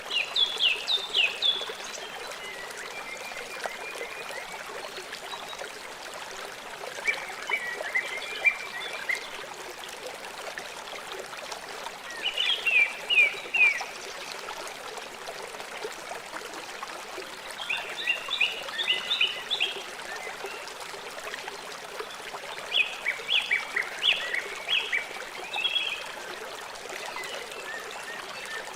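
River water flowing steadily, with a bird singing short phrases of quick chirps every four to five seconds over it.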